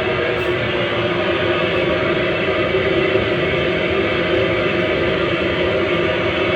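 8-inch 600-watt loudspeaker playing pink noise: a loud, steady rushing hiss with no rhythm or breaks, lacking the top treble.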